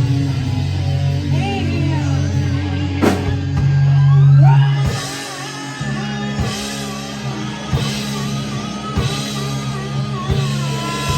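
Live rock band playing: electric guitar and bass over drums. About four seconds in, a note slides up in pitch and is then held with a wavering vibrato, while the drums keep a steady beat.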